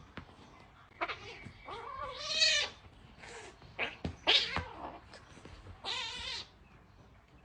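Young orange cat giving aggressive yowls, several wavering, drawn-out calls with a rough edge, separated by short pauses.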